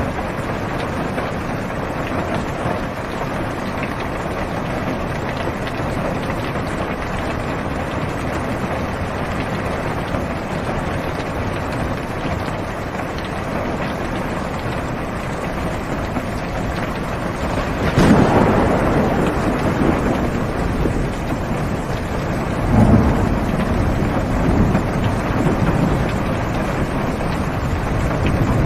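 Heavy rain falling steadily on a car's roof and windows, heard from inside the car. About two-thirds of the way in, a sudden thunderclap breaks, followed by rumbling thunder that swells and fades over several seconds.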